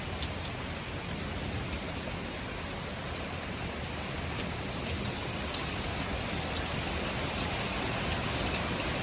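Heavy thunderstorm rain falling steadily, a continuous hiss that grows slightly louder toward the end.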